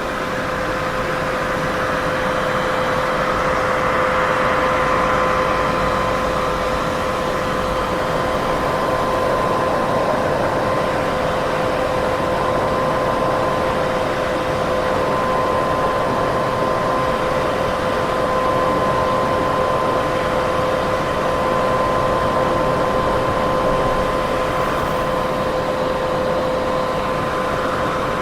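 Continuous white-noise sleep sound: an even hiss with a steady two-note hum under it, slowly swelling and easing in loudness.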